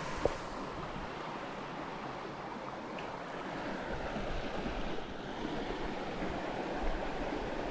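River water rushing steadily, a continuous rush with no pauses. A single short click sounds about a quarter of a second in.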